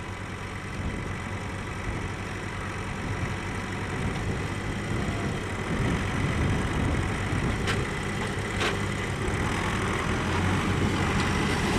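Tractor engine running steadily, growing louder partway through, with two short clicks around eight and nine seconds in.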